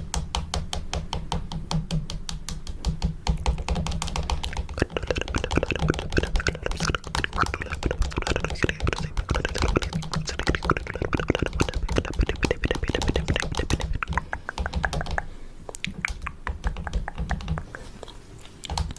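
Fast, continuous fingernail tapping close to the microphone, ASMR camera tapping, many sharp clicks a second. The tapping thins out and gets quieter near the end.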